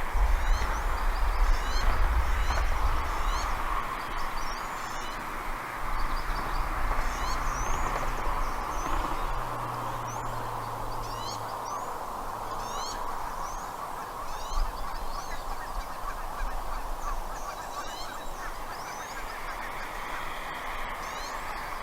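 Birds calling outdoors: clusters of short, high, upward-sweeping notes repeat throughout over a steady hiss, with a low rumble during the first few seconds.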